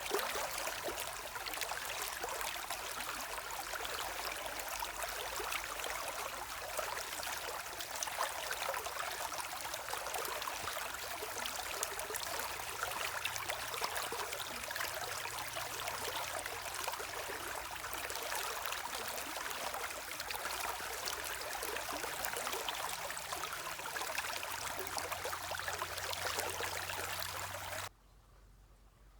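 Gentle running water: a stream trickling and bubbling steadily, cutting off abruptly about a second before the end.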